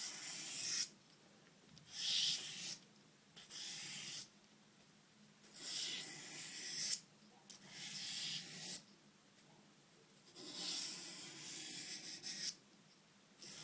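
A steel knife blade stroked across 800-grit sandpaper in a stropping motion: a series of dry rasping strokes, each lasting about a second, with short quiet pauses between. This is the slow sanding that works small dents out of the edge while convexing it.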